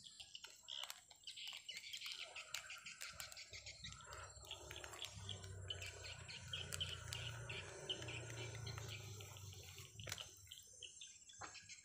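Birds chirping faintly, with scattered small clicks and a low hum through the middle few seconds.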